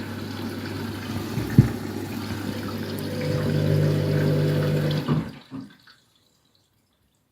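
Washing machine tumbling an overloaded drum: a motor hum with water sloshing and a single knock about a second and a half in. The drum motor stops about five seconds in, the pause in the wash action, and the sound falls away to silence.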